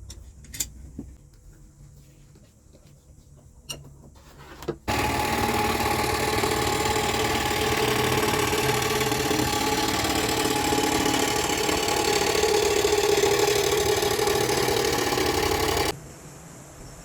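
A few light clicks, then a woodworking power tool running steadily for about eleven seconds, starting and stopping abruptly.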